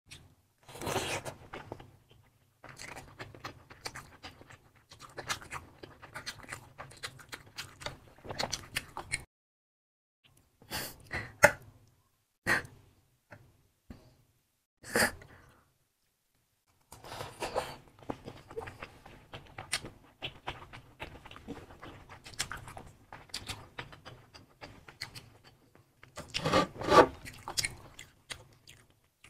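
Close-up eating sounds: chewing and biting into saucy, cheese-covered sausages, with wet mouth sounds, breaths and occasional sharp clicks, coming in irregular bursts with a couple of short quiet gaps.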